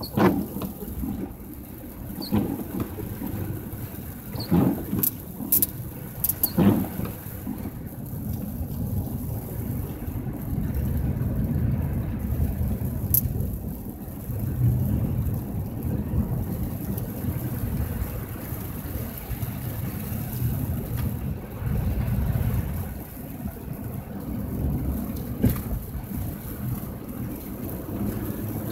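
Car driving on a snowy road: a steady low engine and road rumble, with a few short knocks in the first seven seconds and another near the end.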